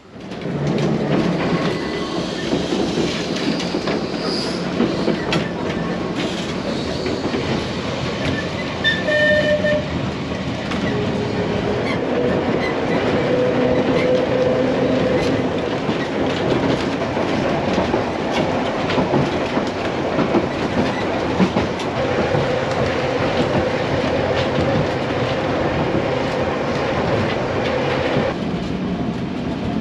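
Manx Electric Railway tram running along the line, a steady rumble and rail noise from the wheels on the track, starting suddenly at the beginning.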